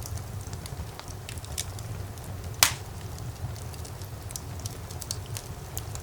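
Fire in a fireplace crackling, with scattered small pops over a low steady rumble and one loud pop about two and a half seconds in.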